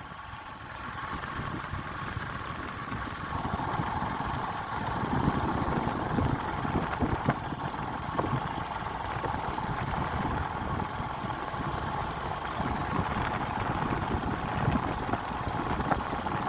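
Motorcycle engine running steadily while riding, its hum dropping a little in pitch about three seconds in, with wind rumbling on the microphone.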